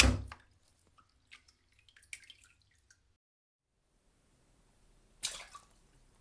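Two separate water splash sound effects: a loud splash at the start followed by scattered droplets falling back for a couple of seconds, then after a quiet gap a second, shorter splash about five seconds in.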